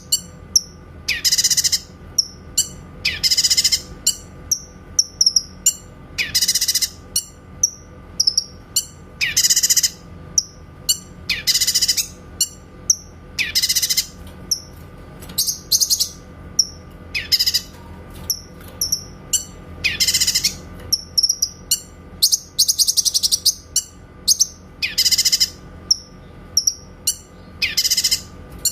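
Cucak kinoy calling over and over: a dense, rapid high-pitched burst of notes, the 'tembakan' call, about every two seconds, with short sharp chirps in between.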